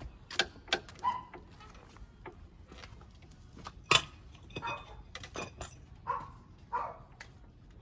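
A dog barking in short single barks, about four times, among sharp metallic clinks and taps; the loudest is a single sharp click about four seconds in.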